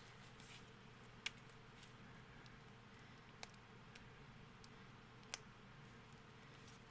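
Faint clicks and taps from plastic CD packaging being handled, three sharper clicks spaced about two seconds apart over quiet room tone.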